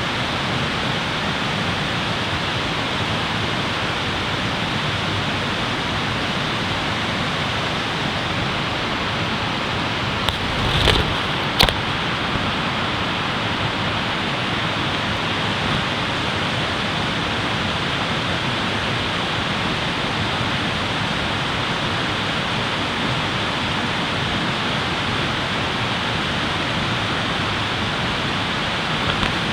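Steady rushing noise, even and unbroken, with a few sharp clicks about ten to twelve seconds in.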